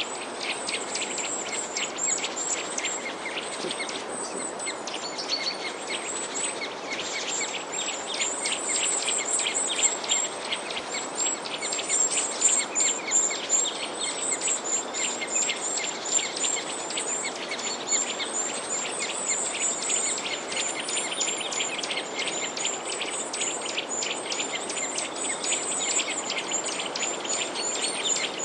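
Many small birds chirping and twittering densely and without pause, over a steady hiss.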